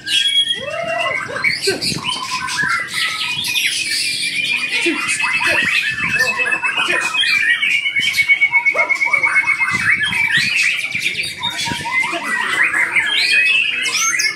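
White-rumped shamas (murai batu) singing against each other: dense, overlapping whistles, chatter and chirps from several birds, with a long, rapid trill through the middle.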